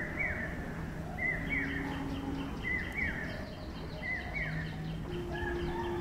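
A bird repeating a two-note call, a short level whistle followed by a quick falling one, about every second and a half, with fainter bird notes beneath.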